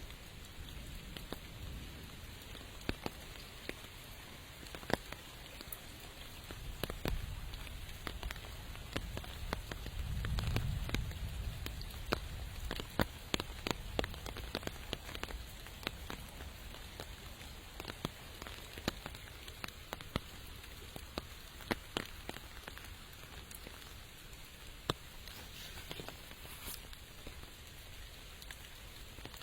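Steady rain falling, with many individual drops ticking sharply close by. A low rumble swells about seven and ten seconds in.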